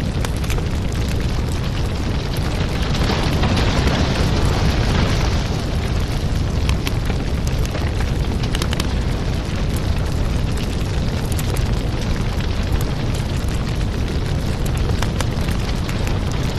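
Wood fire crackling in a fireplace: a steady low rumble of flames with scattered sharp pops and snaps, and a louder hissing swell about three seconds in.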